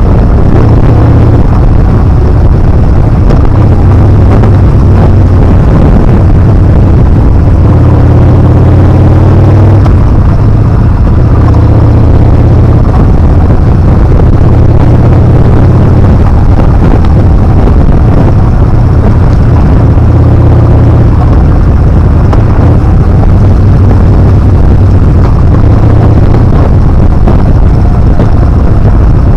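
Yamaha Bolt R-spec motorcycle's air-cooled V-twin engine running under way, with its revs rising and falling every few seconds.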